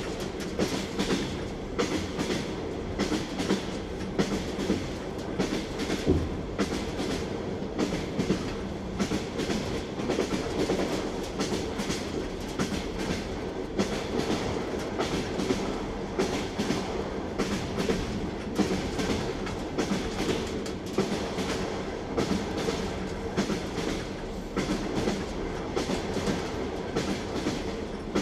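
Train wheels clattering over rail joints, a steady rumble with an irregular run of sharp clicks, typical of riding in a moving railway carriage.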